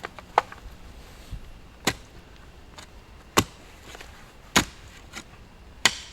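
A hand digging tool chopping down into stony, rooty ground to dig a post hole: about five sharp strikes, roughly one every second and a half.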